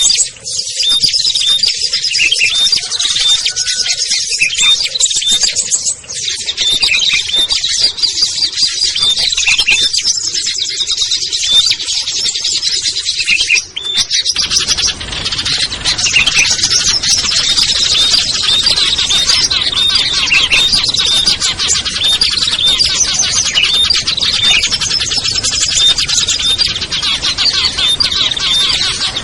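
A dense mix of small songbirds chirping and trilling rapidly over one another, a bird-trapping lure recording. About halfway through there is a brief dip, after which a steady low hiss runs underneath the calls.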